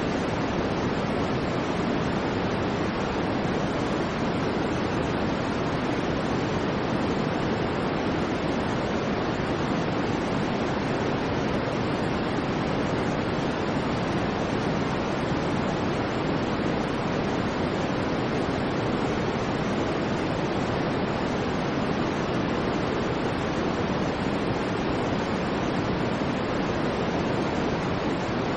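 Steady white noise: an even, unchanging hiss with no surges, breaks or distinct events.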